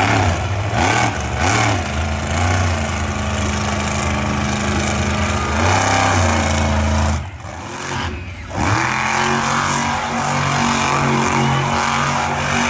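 Monster truck engine running loud and revving, its pitch rising and falling; the sound drops away briefly about seven seconds in, then comes back.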